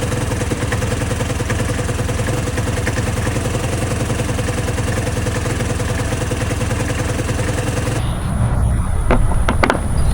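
Vespa GT200 scooter's single-cylinder four-stroke engine running steadily at idle. About eight seconds in, it gives way abruptly to a low rumble with a few sharp knocks.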